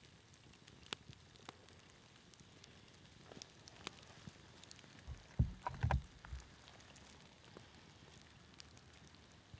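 Light rain falling steadily with scattered sharp ticks of drops. A little past the middle comes a short cluster of low thumps and knocks, the loudest sound here.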